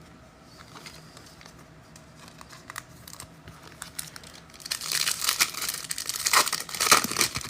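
Foil trading-card pack wrapper being torn open and crinkled, loudest over the last three seconds, after a few faint handling clicks.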